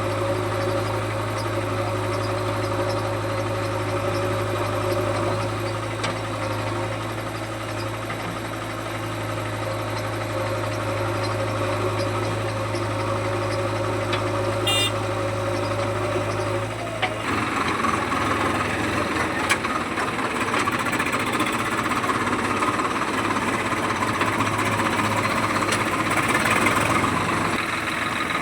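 Heavy diesel engine running steadily, with a sudden change about two-thirds of the way through to a louder, harsher, higher-pitched note, as if revving up or taking load.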